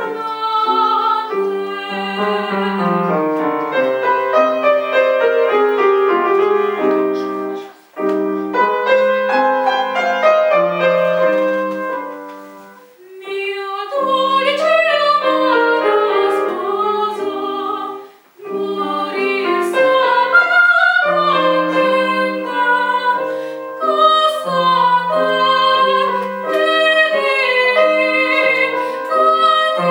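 Female classical voice singing an operatic aria with vibrato, accompanied by piano, with short pauses between phrases.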